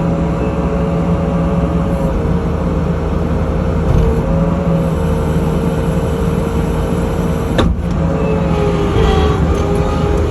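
Skid steer engine running steadily, its pitch sagging slightly now and then as the machine works, with a brief break in the sound about three quarters of the way through.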